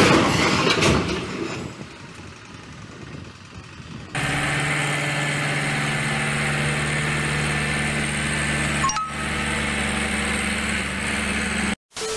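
A loud, noisy clatter in the first second or two. From about four seconds a vehicle engine runs steadily with a low hum, then cuts off suddenly near the end.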